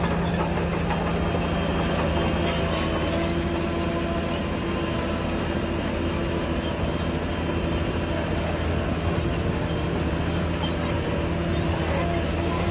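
Heavy earthmoving machinery on a site: a diesel engine running steadily under load, with a continuous metallic clatter and some squeal.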